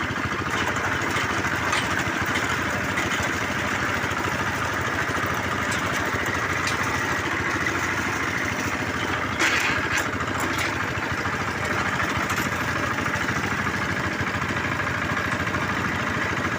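Engine of a bore well drilling rig running steadily, with one short clatter about nine and a half seconds in.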